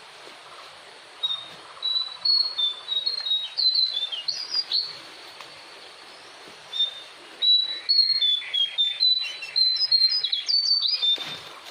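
A bird singing two phrases of quick, high chirping notes, each a few seconds long with a short pause between them.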